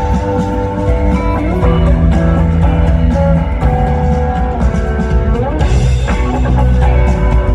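Live rock band playing: electric guitar holding and bending sustained notes over bass guitar and drums, with a note gliding upward about five and a half seconds in.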